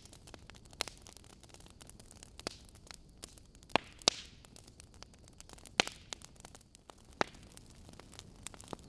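Wood logs burning in a fireplace, crackling with irregular sharp pops over a faint steady hiss; the loudest pops come in the middle, with a short hiss around one of them.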